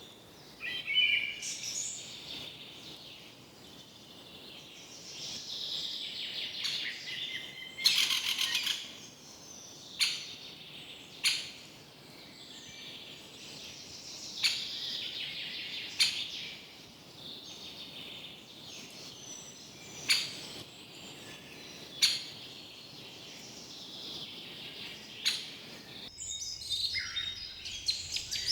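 Forest birds singing and chirping, several phrases overlapping, with sharp single call notes every couple of seconds and a rapid trill about eight seconds in. The background hiss changes abruptly near the end, like a splice in the recording.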